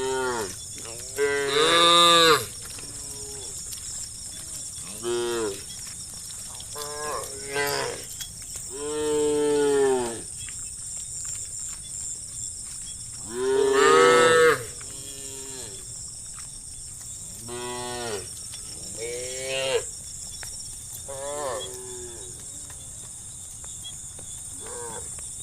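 Cattle mooing, about a dozen separate calls from several cows, some long and loud and others short, over a steady high chirring of insects.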